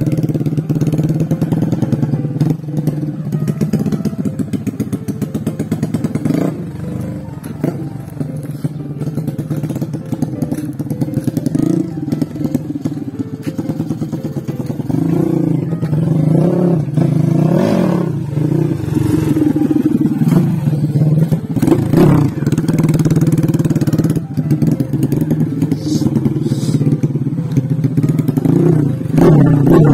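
239cc two-valve XRM underbone dirt bike engine running, its pitch and loudness rising and falling with the throttle.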